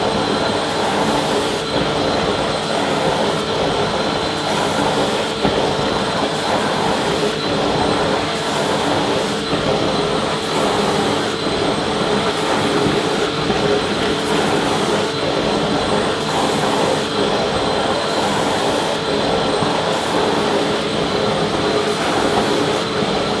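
Vacuum cleaner running steadily: a continuous motor whine over a dense rush of airflow, with a few constant pitched tones held throughout.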